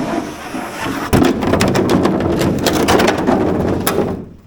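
Blizzard wind buffeting the microphone, with many sharp ticks of wind-driven snow striking it; the noise surges about a second in and drops away sharply near the end.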